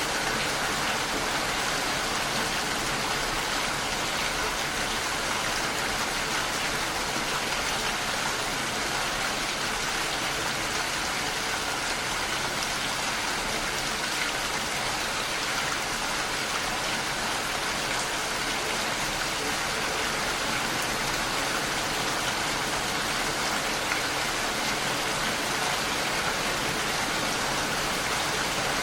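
Heavy rain falling steadily against a window pane, a dense even patter.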